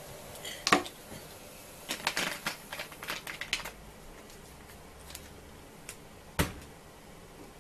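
Small hard objects being handled: a sharp knock, then a quick run of clicks and rattles lasting under two seconds, and another sharp knock near the end.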